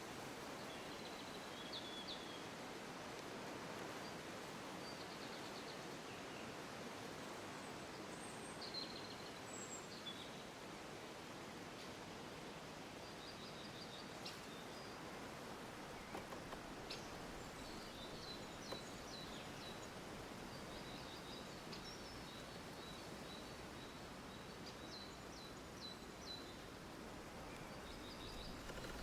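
Faint birdsong: scattered short high chirps and trills over a steady hiss.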